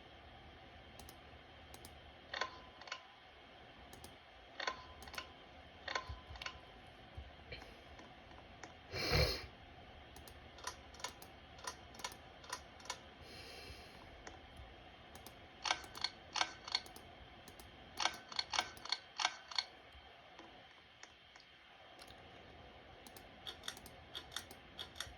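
Two Hampton Bay ceiling fans running on low, with a faint steady background and many irregular sharp clicks and ticks, some ringing briefly. There is a louder thump about nine seconds in.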